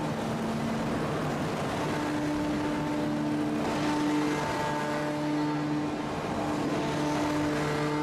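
Machinery of a heavy hydraulic forging press running steadily: a constant mechanical din with humming tones that switch between pitches every second or so.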